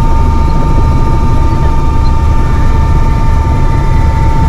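Helicopter running: a loud, steady low rotor drone with a constant high turbine whine over it.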